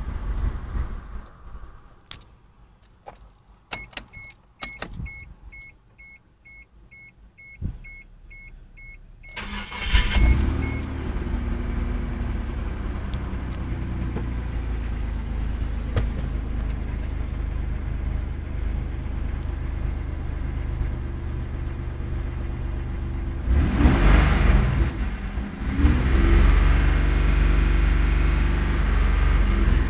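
Clicks and a vehicle warning chime beeping about twice a second, then the 1994 Isuzu Trooper's engine cranks, starts and runs steadily, with a short rev near the end. The engine is running with a misfire.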